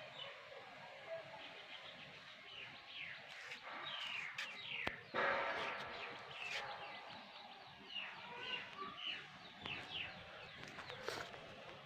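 Small birds chirping repeatedly, many short falling chirps. About five seconds in there is a sharp click, then a brief louder burst of noise.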